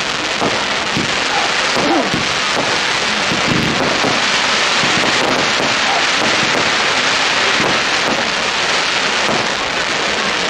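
Fireworks display crackling densely and without a break: a steady hiss made of countless small pops and crackles.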